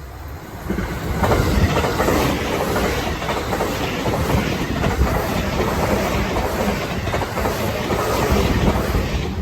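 Train on the JR Chūō Main Line passing over a level crossing. The passing noise swells about a second in and stays loud, with the wheels clacking in a regular rhythm over the rail joints.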